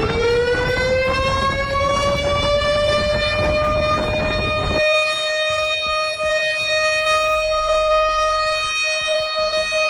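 A siren winding up in pitch over the first couple of seconds, then holding one steady wail. A noisy background under it cuts out abruptly about five seconds in.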